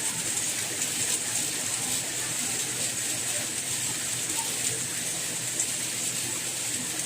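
Steady soft rain: an even hiss with faint scattered drop taps.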